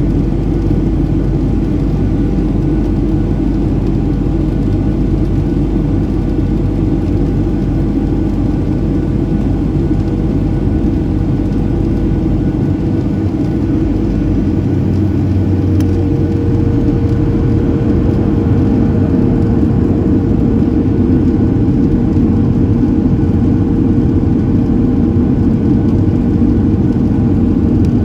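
Steady cabin noise of a Boeing 737-700 in flight: the drone of its CFM56-7B jet engines and rushing airflow, with a few steady hums. About halfway through the deepest rumble thins and a new steady hum sets in, as with a change in engine thrust.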